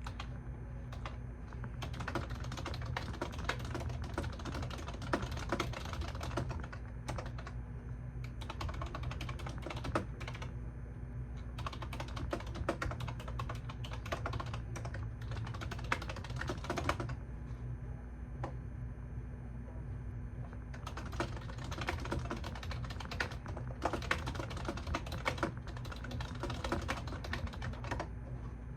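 Typing on a computer keyboard in runs of quick key clicks broken by short pauses, over a steady low hum.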